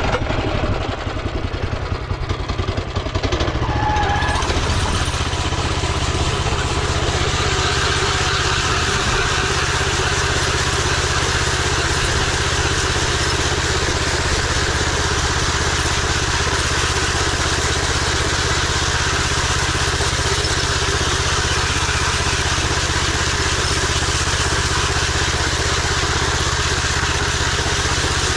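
Ride-on power trowel's engine running steadily under load, its spinning blades working across the setting concrete on a finishing pass. The sound is uneven for the first few seconds, then holds steady.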